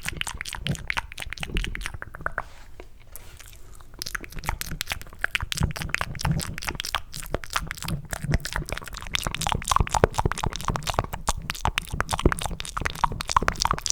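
Cupped mouth sounds made close to the microphone: rapid clicks and smacks meant to sound like eating mac and cheese. They ease off briefly about two seconds in, then pick up again, denser.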